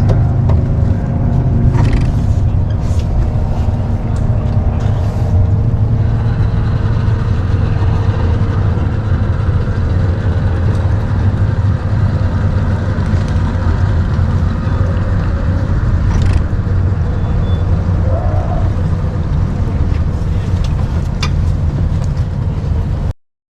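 Boat's outboard motor running steadily with a low rumble, wind and water noise over it; it cuts off suddenly near the end.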